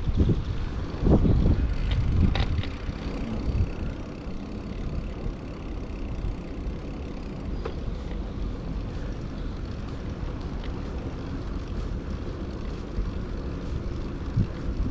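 Wind buffeting the microphone of a camera on a moving bicycle, a low rumbling noise with heavy gusts in the first two seconds, then steadier.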